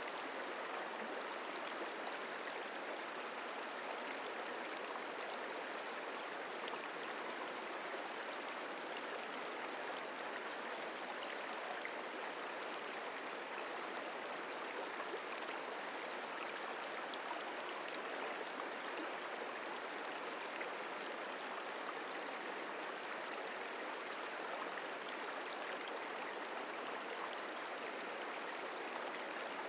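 The Merced River flowing, a steady, even rush of running water.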